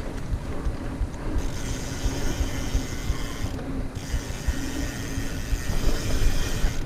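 Mountain bike's rear freehub ratchet buzzing as the bike coasts. It starts about a second and a half in and breaks off briefly in the middle, as when pedalling resumes. Under it is a steady rough rumble of the ride over the trail.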